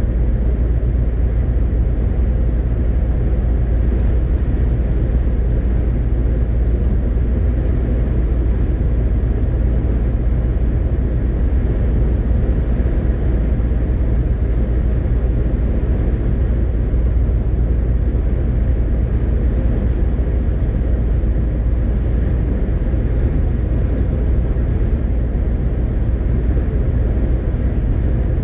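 MAN TGX 18.520 truck on the move: a steady, low drone of engine and road noise with a strong deep rumble, with no gear changes or revving.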